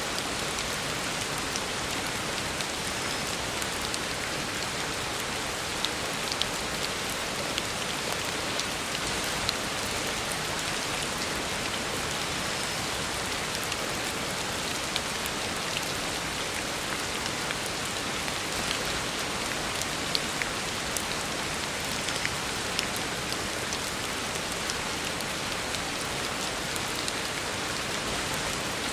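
Heavy rain falling steadily on a road, a dense even hiss with the sharp ticks of individual drops scattered through it.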